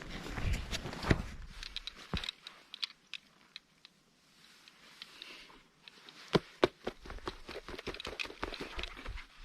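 Gear being handled and packed: light rustling with scattered sharp clicks and knocks. It goes quiet for a few seconds in the middle, and a run of louder knocks and clicks starts about six seconds in.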